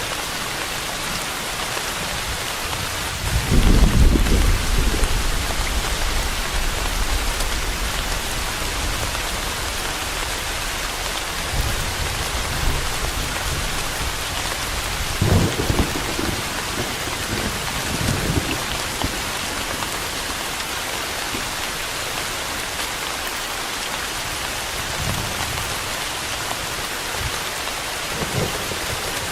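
Steady rain hiss with rumbles of thunder. The loudest roll starts about three seconds in and lasts several seconds; shorter rumbles come around the middle, and fainter ones near the end.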